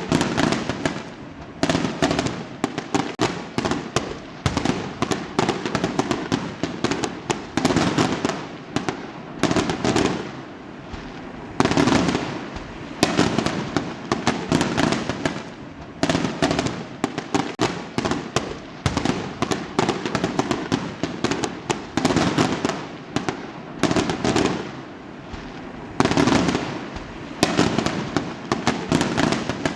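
Fireworks going off in a dense barrage: many sharp bangs and crackling pops overlap without a break, swelling in surges every second or two.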